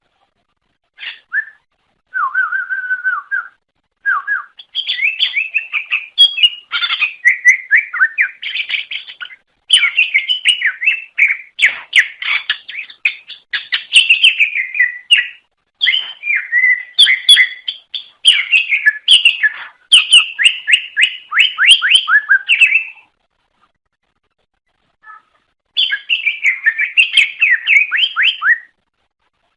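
Cucak ijo (greater green leafbird) singing: long runs of quick, varied whistled and chattering notes, broken by a pause of a couple of seconds about 23 seconds in before the song starts again.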